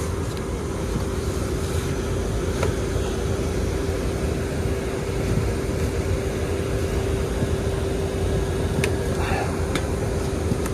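Steady drone of commercial rooftop air-conditioning units running, with a constant hum tone over it. A few light ticks come near the end.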